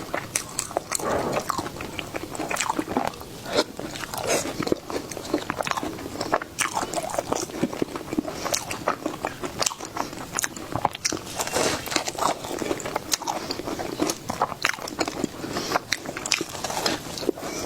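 A person biting into and chewing a crunchy sweet dessert: a quick, irregular run of sharp crunches and clicks throughout.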